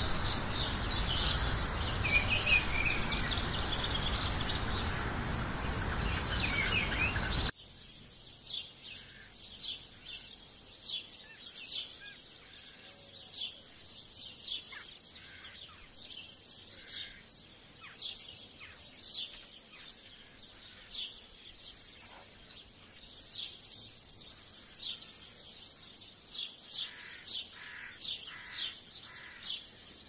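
Songbirds singing over a loud, steady background hiss that cuts off abruptly about seven seconds in. Against a quiet background, a bird then gives short, sharp, high chirps, roughly one a second, coming faster and closer together near the end.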